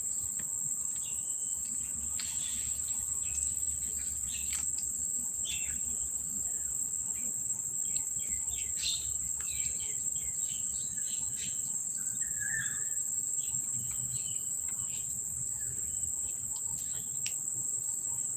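A steady, high-pitched drone of insects, typical of crickets, with short bird chirps scattered through it.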